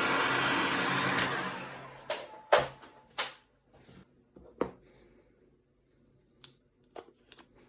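Electric heat gun blowing hot air onto the water pump housing, switched off about a second in and winding down. Then a few separate knocks and clicks as the bearing is worked into the warmed housing.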